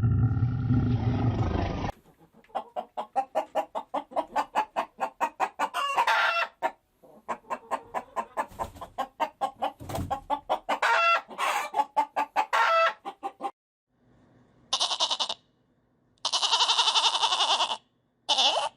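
Animal calls: a low rumble for about two seconds, then a long run of quick repeated short calls, several a second, then three separate longer calls near the end, the longest lasting about two seconds.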